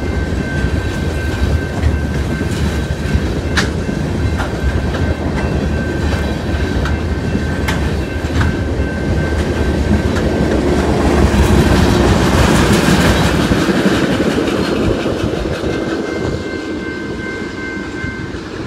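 Freight train of wind-turbine blade cars rolling past a grade crossing: a steady rumble of wheels on rail with a few sharp clacks, swelling about eleven seconds in as the last cars go by, then easing off. A steady crossing-signal bell tone rings throughout.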